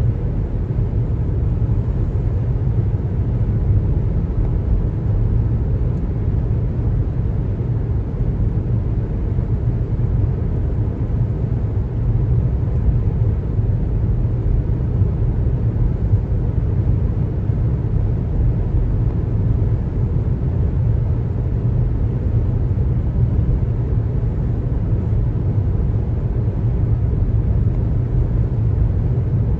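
Car driving on the road: a steady low rumble of tyre and road noise, even, with no sudden sounds.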